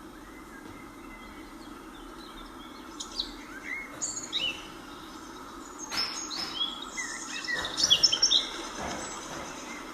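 Several birds calling with short chirps and whistles, a few at first, then a busier, louder run of calls near the end, over a steady hum of background noise.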